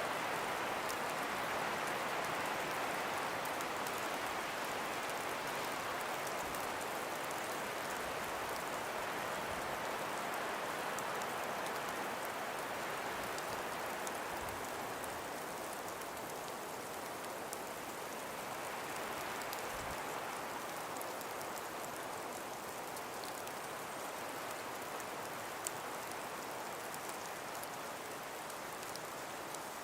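Calm breeze blowing through trees: a steady rushing hiss that eases off a little past halfway and slowly builds again.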